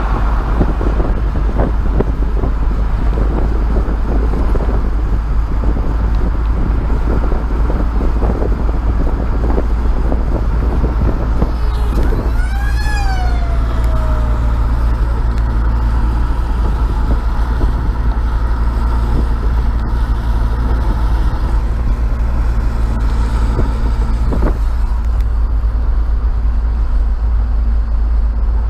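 Vehicle driving at road speed: a loud, steady low rumble of road and engine noise, with rattling and knocking through roughly the first ten seconds. About twelve seconds in, a short pitched squeal rises and then falls away, and a single knock comes near the end.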